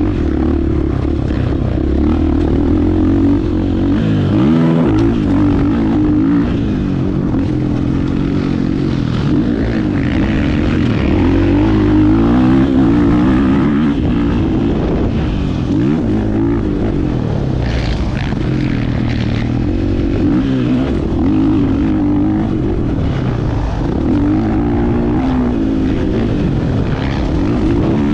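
Husqvarna FE 501's single-cylinder four-stroke engine ridden hard, its pitch repeatedly rising and falling as the throttle is opened and closed, with brief dips about four and a half seconds in and again around sixteen seconds.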